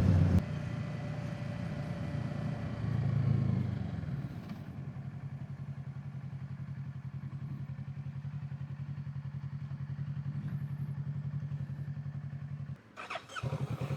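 Kawasaki Z650 parallel-twin engine ticking over at a steady, evenly pulsing idle, after louder running in the first moment. The sound drops out briefly near the end.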